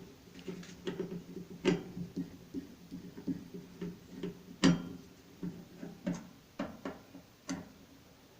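Irregular clicks and taps of a screwdriver and small metal parts being handled while a microwave oven is taken apart, with louder knocks about a second and a half in and near five seconds.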